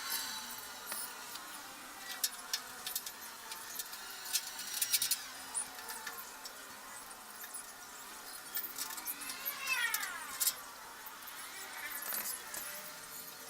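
Irregular small clicks and taps of parts and tools being handled, with a short squeak that rises and then falls in pitch about nine seconds in.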